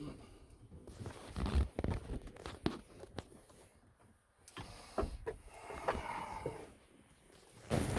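Irregular clicks, knocks and rustling of hands handling small objects and fittings, with a louder spell of low rumble and clicks near the end.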